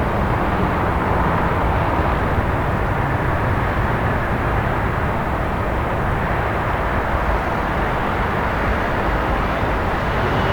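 Steady city ambience: a continuous low rumble of traffic with no single event standing out.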